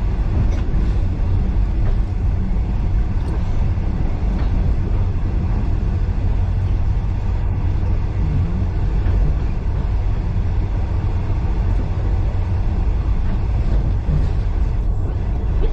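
Steady low rumble of a heritage passenger carriage running along the rails, heard from inside the carriage, with a few faint ticks.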